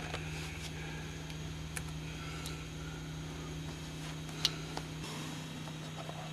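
Faint clicks of bolts being handled and fitted, with one sharper metallic click about four and a half seconds in, over a steady hum; a low rumble stops about five seconds in.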